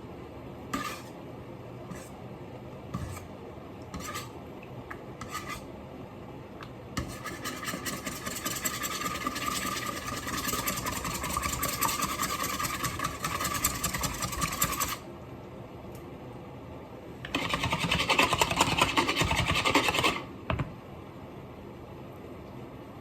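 Rapid rasping and scraping from food preparation: a few short strokes, then two long runs of fast scraping, the second one louder.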